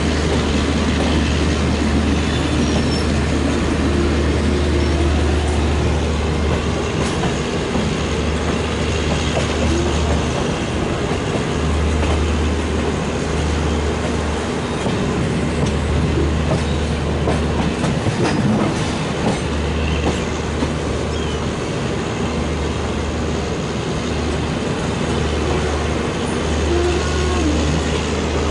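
Passenger coaches of a WAP-7-hauled Duronto express rolling slowly over the track: a steady rumble with wheel clatter and a low hum that comes and goes.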